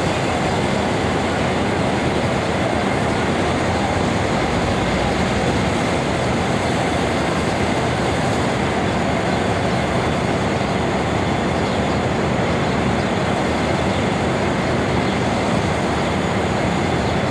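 A train running through the station, a loud, steady noise that holds at the same level without a break.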